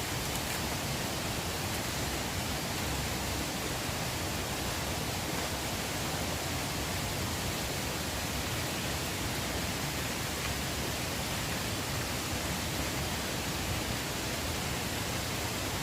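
Steady rush of flowing river water: an even noise that does not change.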